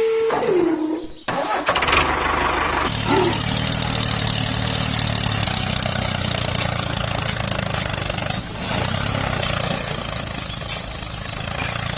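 A short held tone that slides down in pitch and is cut off, then, from about three seconds in, an engine running with a steady low hum.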